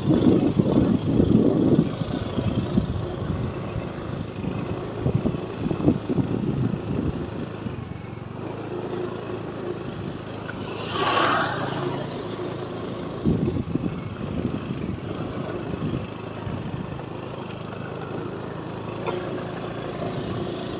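A vehicle travelling over a rough, rocky road: a steady running rumble with jolting bumps in the first several seconds, and a short swell of rushing noise about eleven seconds in.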